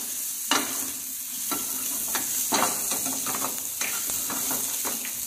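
Chopped onion and garlic sizzling gently in olive oil in a stainless-steel frying pan, stirred with a steel ladle that scrapes the pan about once a second. This is the light sauté stage, with the onion softening but not browning.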